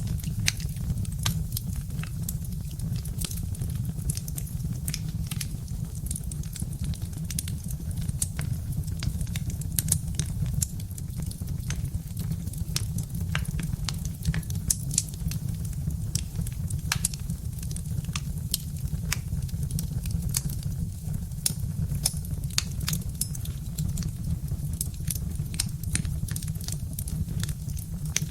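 Birch-wood fire crackling, with frequent sharp, irregular pops and snaps over a steady low rumble.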